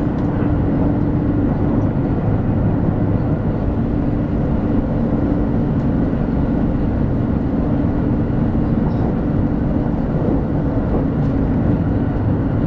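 Running noise of a 200 series Shinkansen heard inside the passenger cabin as the train travels at speed: a steady deep rumble with a constant low hum through it.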